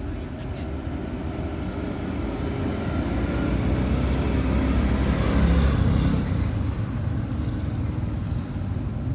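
A motor vehicle passing, its engine and road noise growing louder to a peak a little past the middle, then fading.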